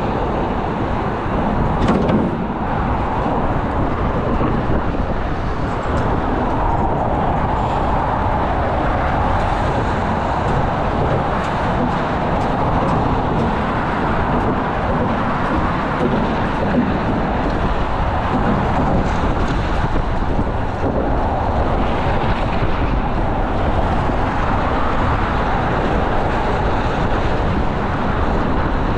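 Steady vehicle noise, a continuous low running sound with no breaks.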